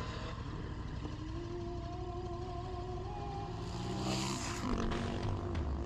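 Motorcycle engine running at a steady speed, its pitch shifting about four seconds in as the revs change.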